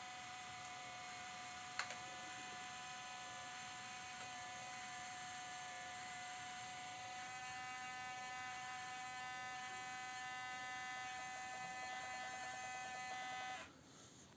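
Small electric motor of a Bruder Scania RC crane-truck conversion whining at a steady pitch as it lifts a load of about 400–500 grams. There is a single click about two seconds in; near the end the whine turns fluttery, then cuts off suddenly.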